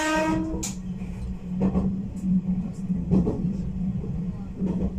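Black Ship electric train heard from inside its front car, running on the rails: a horn blast ends just after the start, then a steady running hum with a rail-joint clack about every second and a half.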